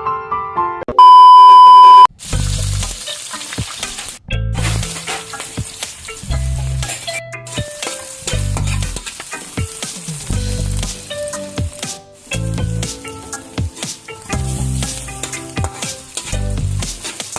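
A loud steady beep lasting about a second near the start. Then food frying in a pan, with a continuous sizzle and stirring, over background music with bass notes about every two seconds.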